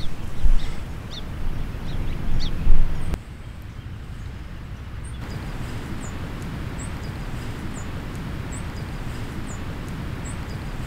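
A small bird calling with short high chirps, about one a second, over a steady low outdoor noise. In the first three seconds, uneven low rumbling bursts, louder than the rest, sit under a few lower chirps.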